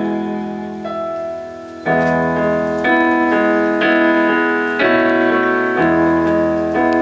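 Piano accompaniment playing chords: a held chord fades for about two seconds, then new chords are struck roughly once a second.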